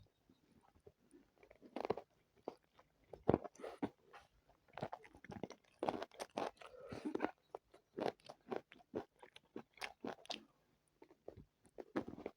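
Close-miked eating: irregular crunching and chewing of a spicy chicken biryani meal with chicken legs.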